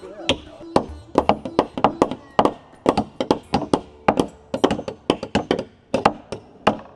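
Several carpenter's hammers striking wood and nails while boards of a wooden footbridge are nailed down: irregular, overlapping sharp blows, about three to four a second.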